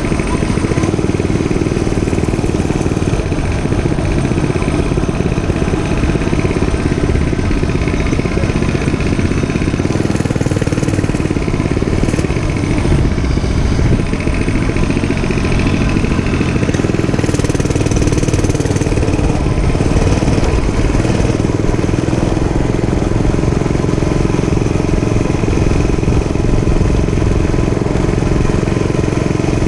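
Dirt bike engine running steadily at a fairly even speed, with a few brief rushes of hiss about ten and seventeen seconds in.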